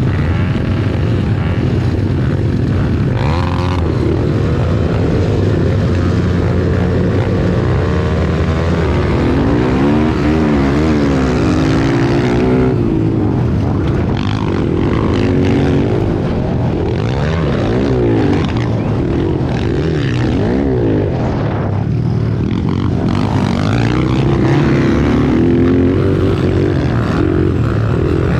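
A pack of pit bike engines revving up and down as they race, several pitches rising, falling and crossing one another over a steady low drone.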